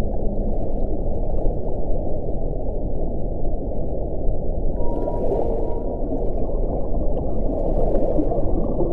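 Wind blowing in a steady deep rush, with a faint whistling tone about five seconds in and brief hissing gusts around five and eight seconds in.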